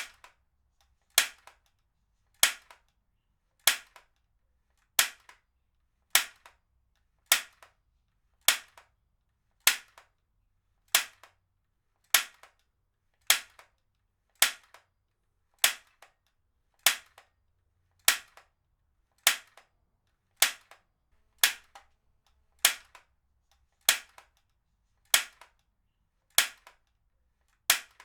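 Heavy-duty stapler firing staples one after another, a sharp snap about every 1.2 seconds, each followed by a fainter click as the handle springs back.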